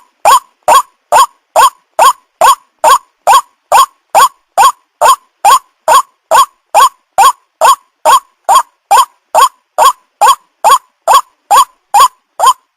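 White-breasted waterhen (ruak-ruak) calling: a loud, harsh, croaking note repeated with machine-like regularity, a little over two notes a second.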